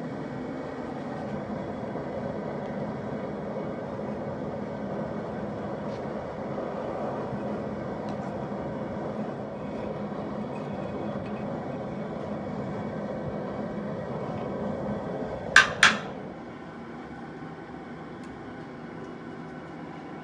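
Steady rushing noise, taken to be the propane turkey-cooker burner heating the lead pot. Near the end come two sharp metallic clanks in quick succession, and after them the rushing is quieter.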